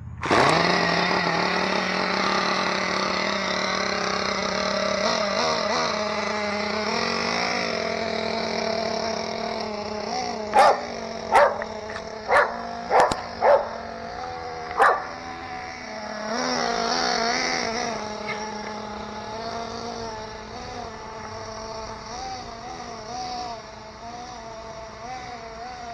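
Small nitro RC engine running steadily with a droning note, while a dog yelps sharply about six times in the middle, set off by her electric shock collar.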